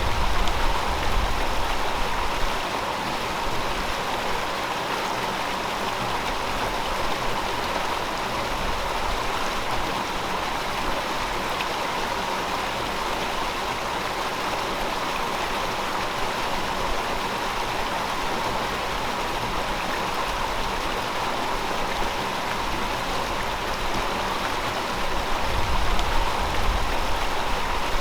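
River water flowing over rocks, a steady rushing and gurgling. A low rumble swells briefly near the start and again near the end.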